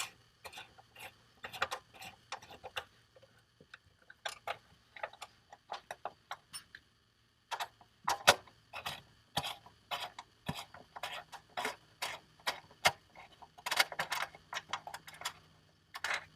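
Irregular metal clicks and ticks, several a second, from a screw being backed out of a freshly set jack nut in the truck's floor, with a short pause about seven seconds in.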